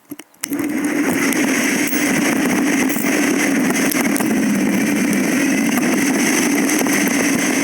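Steady riding noise of a bike on the move, picked up by a GoPro: a continuous drone with hiss above it. It cuts in abruptly about half a second in, after a near-silent gap.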